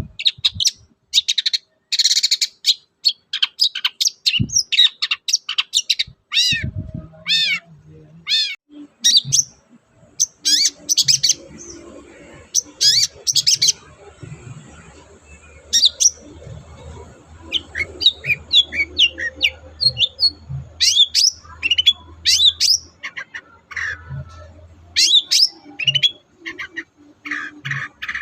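Long-tailed shrike (cendet) in full song: a rapid, unbroken run of varied short chirps and sharp down-sweeping notes.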